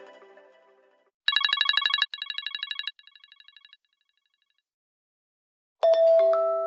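iPhone ringtones: a fast electronic telephone trill, repeated twice more, each time quieter like an echo. About six seconds in, the next ringtone starts with a loud struck chime that rings on and fades.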